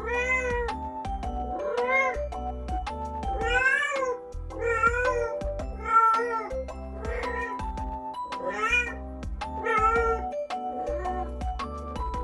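A domestic cat meowing over and over, about a dozen short rising-and-falling meows roughly once a second, with background music underneath.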